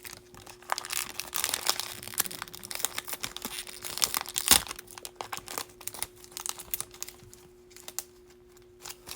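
Wrapper of a baseball card pack crinkling and tearing as it is opened, with a sharp tap about four and a half seconds in; after that only scattered small clicks of the cards being handled.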